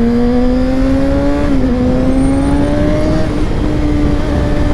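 Kawasaki ZX-6R 636's inline-four engine accelerating under load, its pitch climbing steadily, dropping with an upshift about one and a half seconds in, then climbing again and levelling off.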